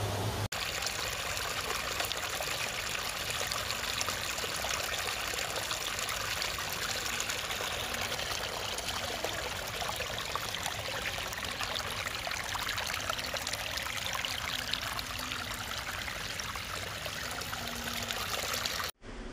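Water from a pump-fed garden waterfall falling and trickling over stones into a pond: a steady splashing rush.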